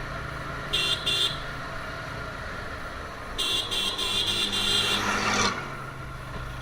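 TVS Apache RTR 160 single-cylinder motorcycle engine running steadily while riding in traffic. A vehicle horn sounds two short beeps about a second in, then a longer run of broken honks from about three and a half to five seconds in.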